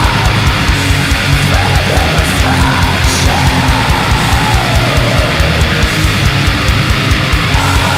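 Heavy metal song: distorted electric guitars over fast, dense drumming, loud and unbroken.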